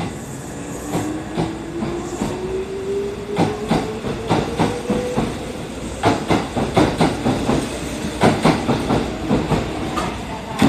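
Kintetsu 12410 series limited-express train pulling out past the platform. A whine climbs steadily in pitch through the first half, then the wheels clack over rail joints in a dense run, loudest in the second half, with one last sharp clack at the end.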